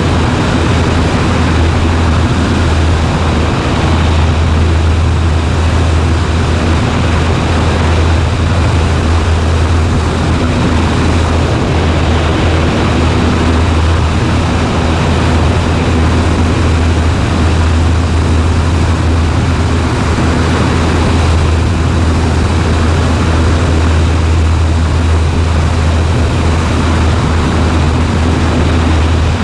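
Cessna 140A's single piston engine and propeller droning steadily in flight, a loud, unchanging low hum with rushing air noise over it.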